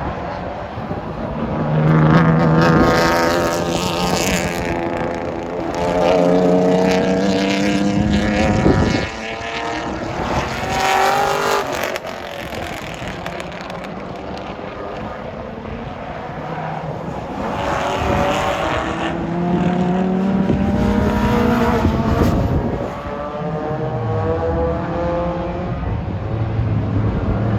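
Race cars' engines accelerating hard along the circuit and passing, several times: the pitch climbs through each gear and drops sharply at the shifts, growing louder as each car comes by and fading as it goes.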